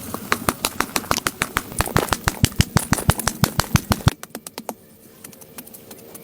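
A fast series of sharp knocks or taps, several a second, that stops abruptly about four seconds in, leaving a quieter stretch with a faint steady hum.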